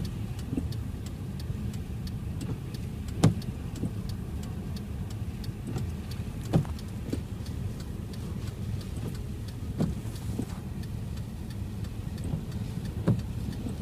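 Car driving, heard from inside: a steady low rumble of road and engine noise, with a sharp knock about every three seconds.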